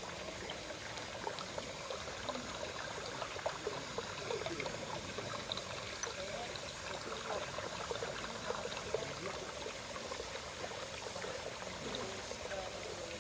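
Water running from a pipe into a pond: a steady trickling, gurgling splash.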